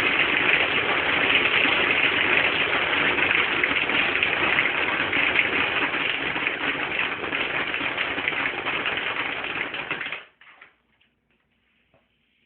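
Homemade airsoft machine gun, a soda bottle fed by a compressed-air blowgun, firing continuously: a loud, dense rush of air with a rapid rattle that runs about ten seconds and then cuts off suddenly.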